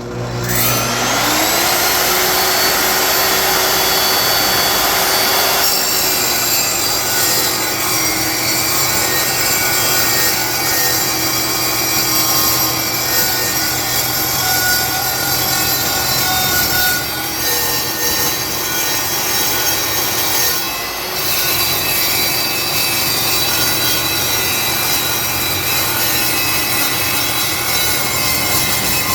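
Evolution R10TS multi-material table saw starting up, its motor whining up to speed, then its blade ripping through 1/4-inch-thick steel angle iron in one continuous pass. About six seconds in the sound turns harsher and noisier as the cut gets going and stays that way.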